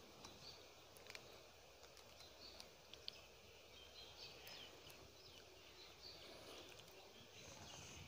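Near silence: faint outdoor ambience with scattered short, high bird chirps and a few faint clicks.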